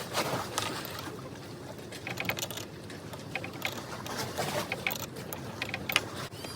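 Irregular small metallic clicks and rattles of hand tools and fittings as the fastenings of a throttle control head are worked loose.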